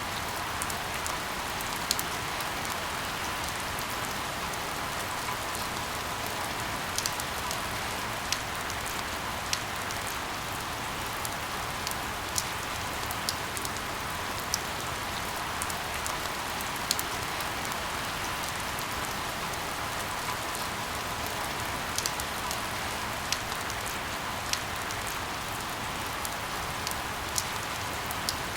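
Steady rainfall, an even hiss with scattered sharp drip clicks, blended with white noise.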